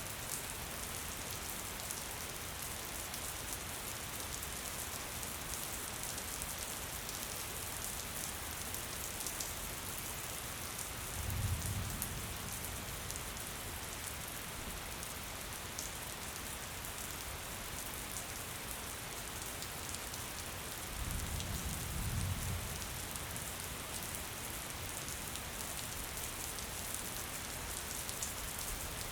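Steady gentle rain falling, an even hiss with the fine patter of drops. Two brief low rumbles rise out of it, about a third of the way in and again about two-thirds in.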